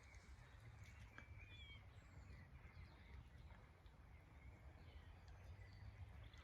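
Near silence outdoors, with faint distant birdsong: a few short high chirps, most of them in the first couple of seconds.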